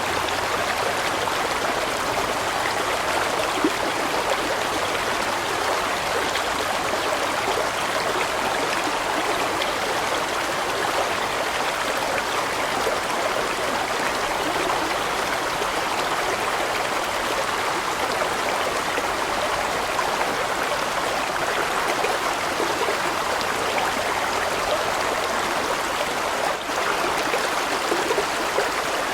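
Large mountain stream flowing steadily over rocks, a continuous rushing and gurgling of water.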